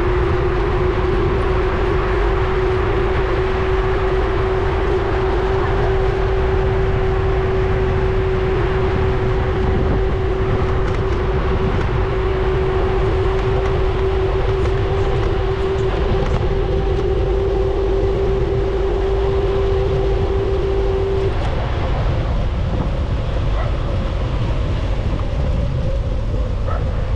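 Wind rushing over a GoPro's microphone while riding a bike, a deep steady rumble, with a single steady mid-pitched whine running underneath that stops about three-quarters of the way through.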